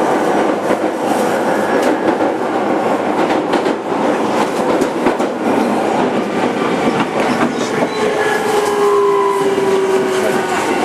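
Running noise inside a JR 205 series 5000-subseries electric motor car: steady rumble with repeated clicks of the wheels over rail joints. From about three-quarters of the way in, a whine from the traction motors and inverter slides down in pitch as the train slows.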